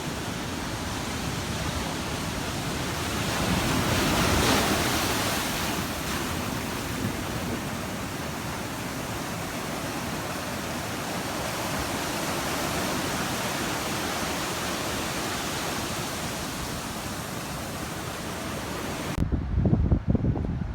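Ocean surf: waves breaking and washing up on a beach as a steady rushing noise, swelling louder with a bigger wave about four seconds in. About nineteen seconds in, it changes abruptly to a low, gusty buffeting of wind on the microphone.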